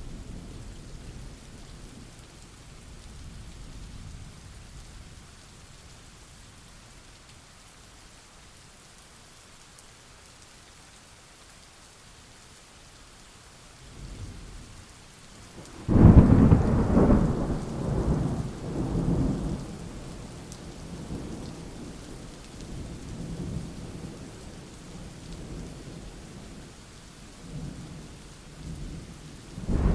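Steady rain with thunder: a low rumble fades over the first few seconds, then about halfway through a sharp thunderclap breaks into a long rolling rumble that dies away, and another peal begins right at the end.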